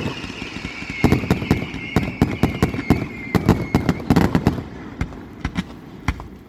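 Fireworks going off: rapid bangs and crackles, with a high whistle sliding slowly down in pitch through the first four seconds. The bangs thin out over the last couple of seconds.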